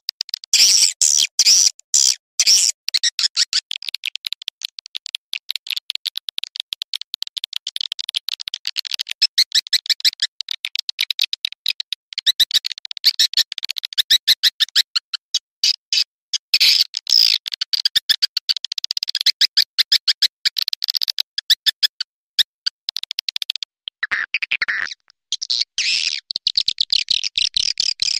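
Swiftlet calling sound: a dense, rapid, high-pitched twittering of chirps and clicks, the kind of lure call used to draw swiftlets into a nesting house. Near the end it dips lower and breaks off briefly before starting again.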